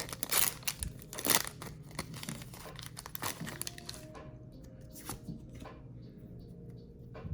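Foil booster-pack wrapper being torn open and crinkled, loudest in the first second and a half, then quieter scattered crinkles and light clicks.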